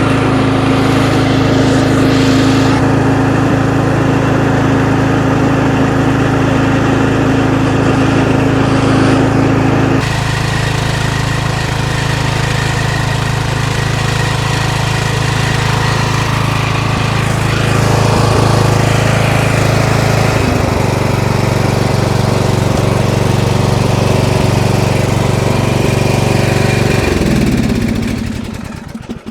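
A 13.5 hp Briggs & Stratton overhead-valve engine on a lawn tractor runs steadily, in its first run after sitting for years. Near the end it winds down and stops.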